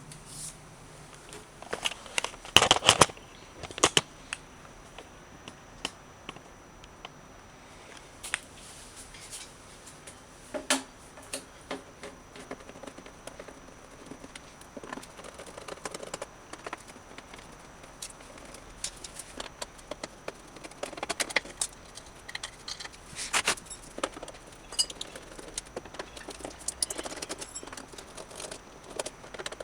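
Irregular clicks, taps and light rattles of hand work on a vintage amplifier, as with tools and screws, with a few sharper knocks about three to four seconds in and again about twenty-three seconds in.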